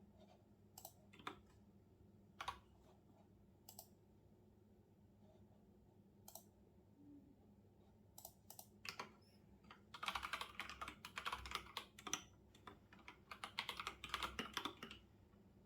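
Typing on a computer keyboard: a few scattered single keystrokes, then two quick runs of rapid typing in the second half.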